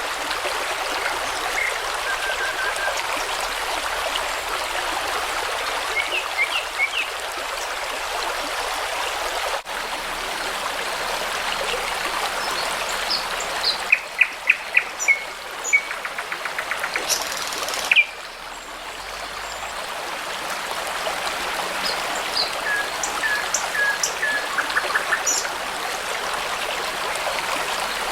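A babbling brook running steadily, with songbirds singing over it. In the middle one bird sings a loud series of repeated notes that speeds up into a rapid trill. The water sound changes abruptly about ten seconds in and again near eighteen seconds.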